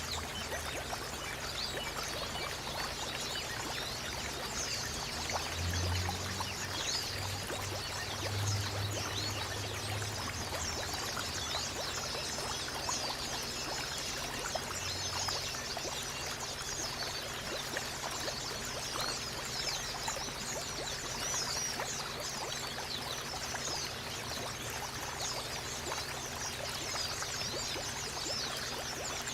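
Steady running water, like a stream, with many small white-eyes (pleci) twittering in quick, high chirps over it. A low hum rises for a few seconds about six seconds in.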